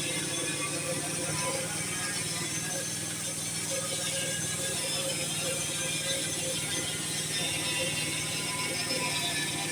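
Sawmill running steadily, a constant mechanical hum with an even hiss over it.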